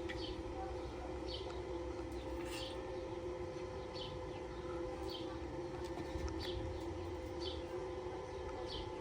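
A bird chirping, a short high note repeating about once a second, over a steady hum.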